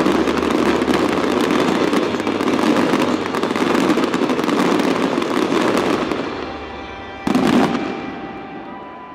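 Fireworks display: a dense, continuous volley of many rapid cracks and bangs from bursting shells, thinning out after about six seconds, then one last loud bang about seven seconds in that dies away.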